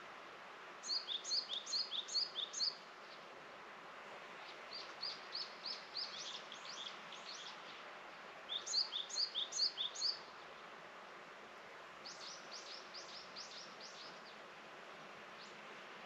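A small songbird singing phrases of quick, repeated high notes, the loudest about a second in and again about nine seconds in, with softer phrases between. A steady faint hiss lies underneath.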